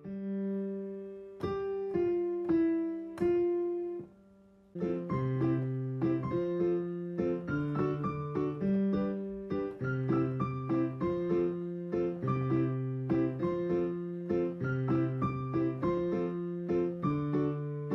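Background piano music: a few slow, ringing notes, a brief pause about four seconds in, then a steady rhythmic piano pattern over a bass line.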